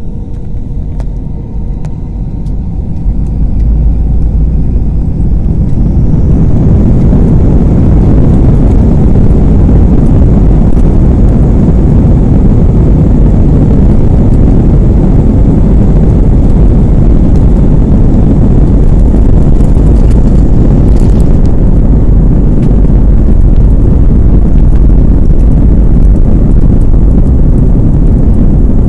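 Aircraft engines spooling up to take-off power and a loud, steady rumble through the cabin during the take-off run. A faint rising whine at the start gives way, a few seconds in, to the rumble, which holds steady.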